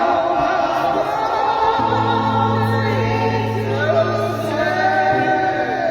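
Gospel choir singing, several voices together, with a steady low held note under them from about two seconds in to about five seconds in.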